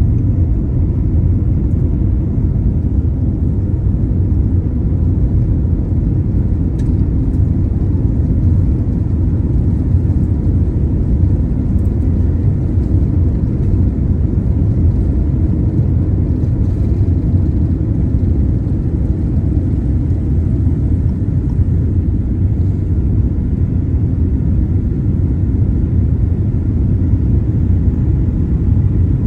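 Boeing 787-9 airliner, a steady low rumble.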